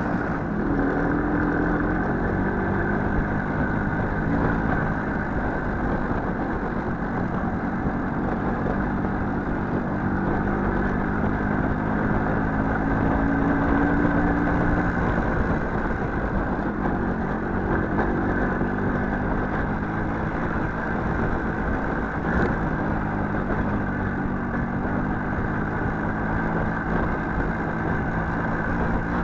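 Small motorcycle engine running while riding, its pitch rising and falling as the throttle is opened and eased off.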